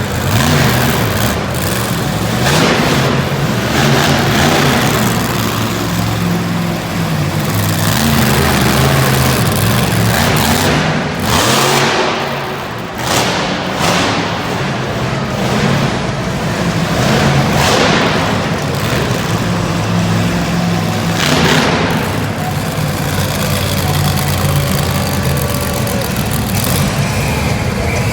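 Monster truck engine running hard and revving, surging up and down repeatedly through a competition run.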